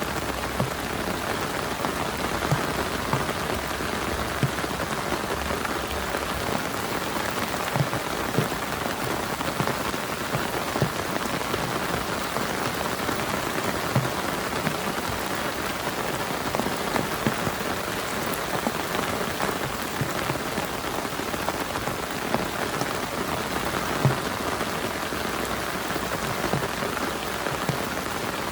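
Heavy rain falling steadily on a tarp, a dense even patter with scattered louder single drops.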